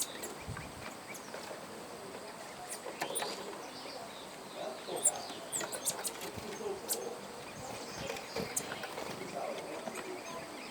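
Outdoor ambience with small birds giving scattered short, sharp chirps, over a steady faint high hiss.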